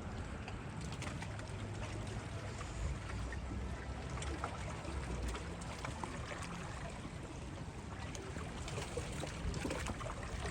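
Black Sea water washing and trickling along the shore, a steady wash with many small scattered clicks.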